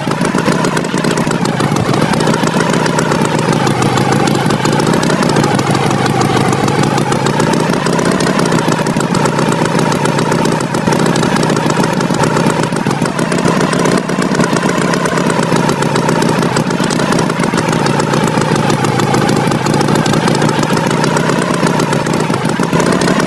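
Cartoon tractor engine sound effect running steadily, its pitch wavering slowly up and down.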